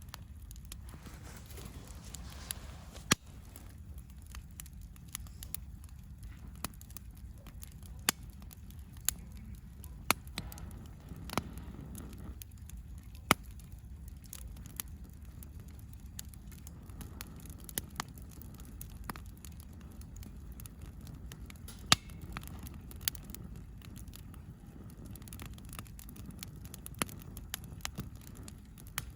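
Wood campfire crackling: scattered sharp pops, a few every couple of seconds at uneven intervals, over a low steady rumble.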